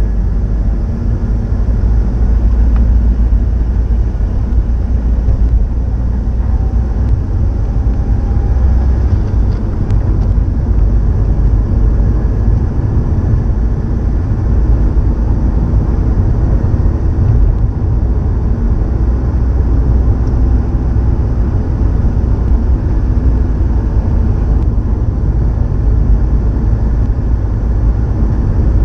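Subaru Impreza WRX STI (GDB) EJ20 turbocharged flat-four engine running steadily through an STI Genome muffler, a low, even drone with no revving.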